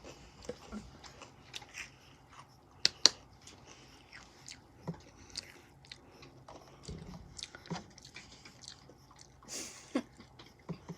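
Someone chewing crunchy Takis rolled tortilla chips, with irregular crunches and two louder bites about three seconds in.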